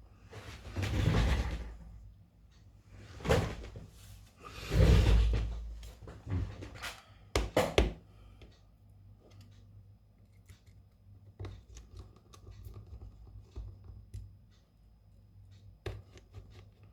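Small handling noises from hands-on phone repair work: a few rustling, rubbing swells, then a quick cluster of sharp clicks, followed by light scattered taps.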